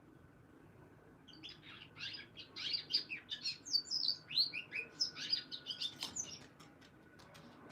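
Canary singing: one fast phrase of high chirps and short trills that starts about a second and a half in and stops about six and a half seconds in.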